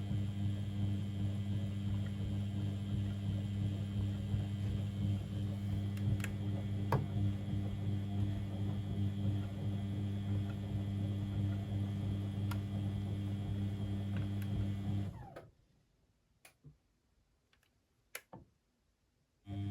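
Beko WML 71433 NP washing machine running with a steady electric hum and a few light clicks. The hum cuts off suddenly about fifteen seconds in, leaving near silence broken by a couple of clicks, and starts up again at the very end.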